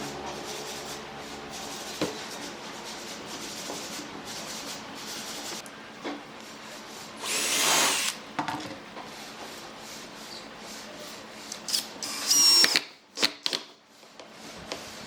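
Power tool working wood: a steady motor hum with scattered knocks. There is a louder burst about halfway through and another, with a high whine in it, near the end.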